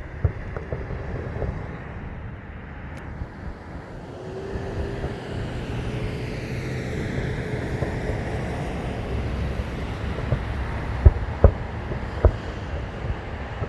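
Distant fireworks bursting: scattered pops, then three loud sharp bangs near the end, over a steady rumble of road traffic with a vehicle passing in the middle.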